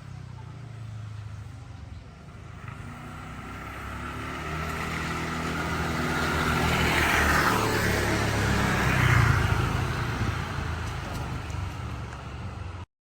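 A road vehicle's engine passing by: its drone builds over several seconds, is loudest about two-thirds of the way through, then fades away. It cuts off abruptly near the end.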